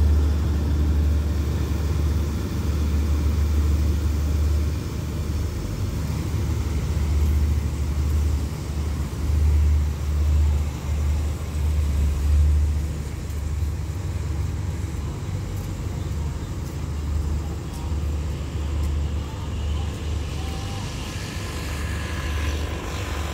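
Passenger train (rapid train 167) rolling past and pulling away: a low rumble that slowly fades as the train moves off.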